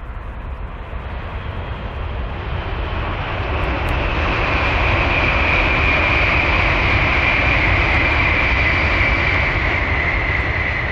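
Tokaido Shinkansen bullet train passing at high speed: a rushing roar that builds over the first few seconds and then holds loud, with a high whine over it that slides slightly lower.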